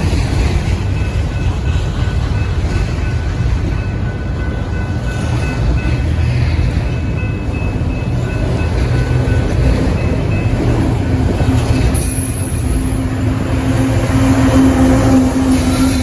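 A train passing close by: a continuous heavy rumble of wheels on rail, with faint thin high squealing tones in the first half and a steady low tone building through the second half, loudest near the end.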